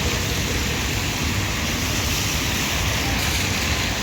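Steady low rumble and hiss of a car driving along a road.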